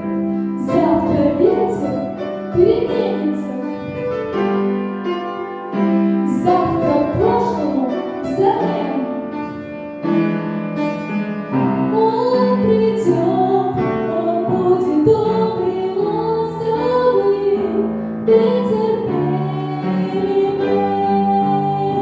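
A female voice singing a slow ballad over a piano-led backing track.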